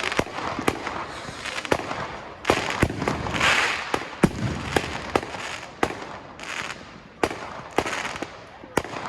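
Fireworks going off: a string of sharp bangs at irregular intervals, one every second or so, with a longer hissing burst a few seconds in and another shorter one later.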